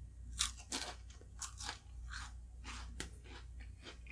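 A person chewing and crunching a mouthful of halo-halo, the Filipino shaved-ice dessert with ice cream: a run of short, irregular crunches.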